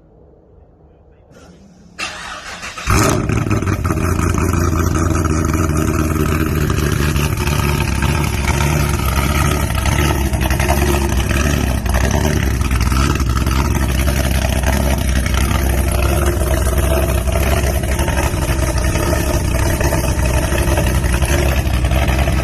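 Car engine cold start: the starter cranks for about a second, the engine catches about three seconds in and settles into a loud, steady idle through a newly fitted exhaust.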